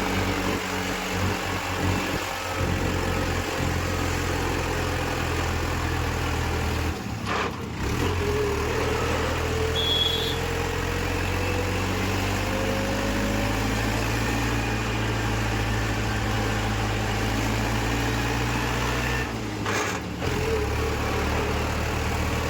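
Tractor's diesel engine running steadily under load on a hill road, its level dipping briefly twice, about seven and twenty seconds in.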